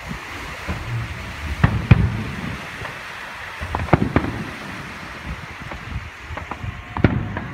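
Aerial fireworks shells bursting over the water: a series of sharp bangs a second or more apart, the loudest about two seconds in and again around four seconds.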